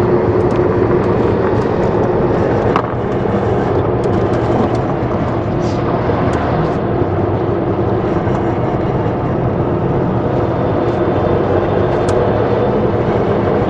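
Vehicle engine and road noise, a steady hum while driving down a winding mountain road, with a brief knock about three seconds in.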